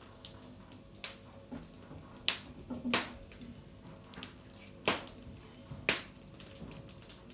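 Irregular sharp clicks and knocks, five louder ones spaced about a second or two apart among smaller ticks, some with a short ringing tail.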